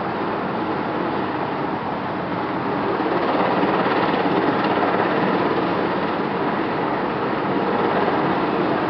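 BK 117 twin-turbine helicopter running, its engines and rotor making a steady, loud noise that grows slightly louder about three seconds in.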